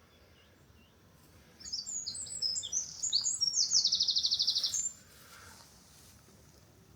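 A songbird singing one phrase of about three seconds: a run of quick, varied high notes that ends in a fast, even trill.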